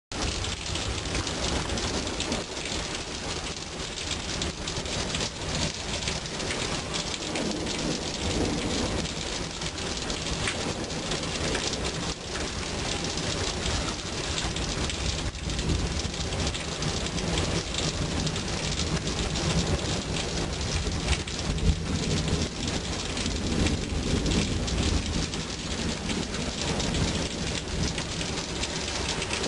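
Heavy rain falling steadily in a thunderstorm, with rolling thunder rumbling low at times, swelling twice in the second half.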